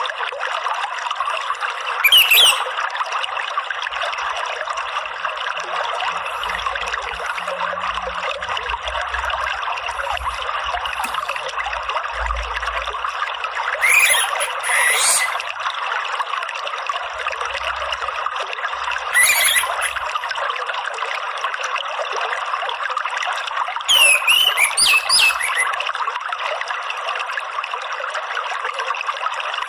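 Steady rush of running water, with a few short, sweeping orange-headed thrush (anis merah) calls every five seconds or so, including one double phrase.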